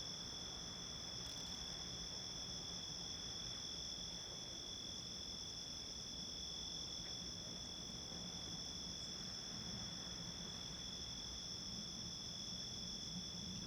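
Night insects, crickets, calling in a steady unbroken chorus at two high pitches, with a faint low hum underneath.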